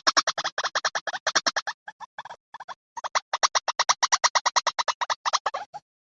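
Recorded white-breasted waterhen call played as a trapping lure: a fast, even run of sharp repeated notes, about ten a second, breaking off briefly about two and a half seconds in before running on.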